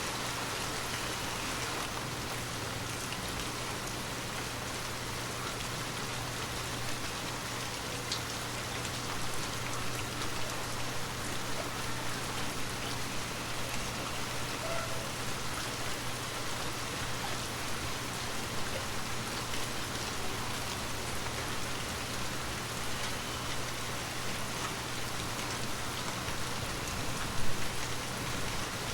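Gentle, steady rain falling on a surface, with scattered individual drops ticking and a low steady hum beneath. One louder tap comes near the end.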